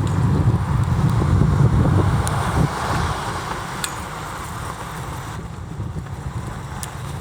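A road vehicle passing, its tyre and engine noise fading after about three seconds, with wind buffeting the microphone.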